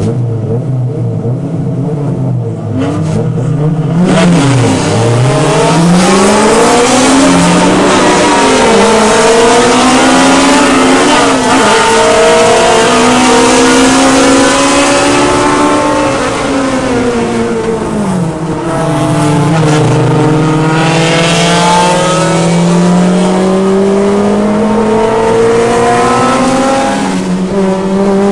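Car engine being driven hard on a race track. The revs climb and drop again and again through the gears, fall away for a few seconds a little past halfway as the car slows, then climb steadily again over road and wind noise.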